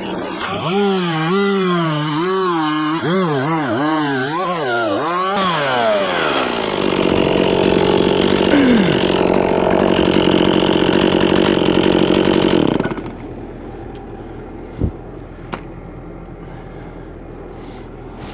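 Chainsaw bucking logs, its engine note rising and falling about once a second as it cuts. A little over five seconds in the revs fall away, followed by a louder, steady rushing machine noise. Near 13 seconds this drops off sharply to a quieter steady engine hum with a few clicks.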